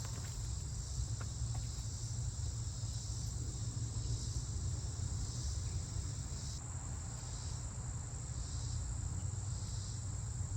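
Insects chirring steadily in a high, continuous drone with a softly pulsing layer, over a steady low rumble.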